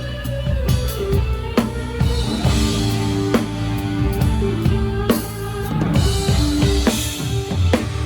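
Live band music with a drum kit played close to the microphone: kick and snare drumming with regular cymbal crashes over held bass and instrument tones.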